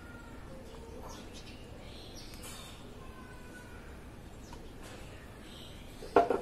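Steady background hiss with faint, scattered bird chirps. A brief loud burst of a woman's voice comes near the end.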